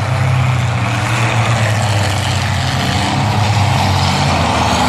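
Demolition-derby truck engines running, a steady low drone.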